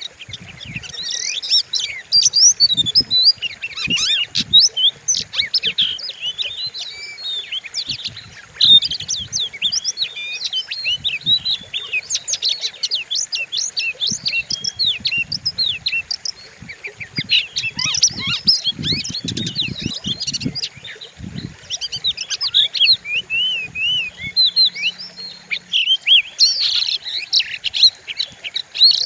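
Oriental magpie-robin (kacer) singing a fast, varied, unbroken stream of whistles and chirps, the fierce song used as a lure to provoke other kacer to sing. Irregular low thumps sound underneath it.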